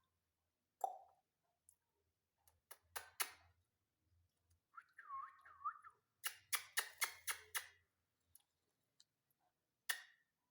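A run of sharp clicks and taps, a few near the start and a quick run of about six in a row after the middle, with a short soft warbling chirp from a ringneck parrot about five seconds in.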